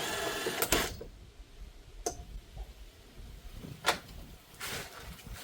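Hand tools working a nut or bolt loose on a car's strut: a scraping rasp at first, then a few sharp metallic clicks and knocks.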